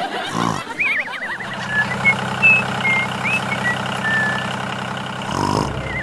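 Cartoon sound effects: wobbly, warbling glides in pitch, then a steady buzzing drone with short high chirps over it.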